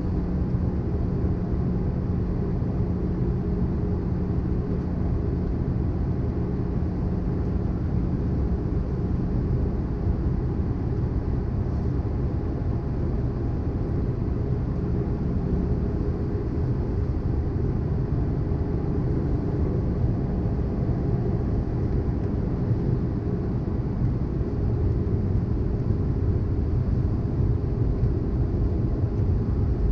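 Steady low cabin noise of an Airbus A320-214 airliner in descent, airflow and CFM56 engines heard from inside the passenger cabin. A faint steady hum sits under it and fades out about halfway through.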